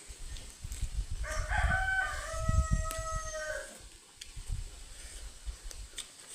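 A rooster crowing once: a single long crow of about two and a half seconds, starting about a second in and dropping in pitch at its end.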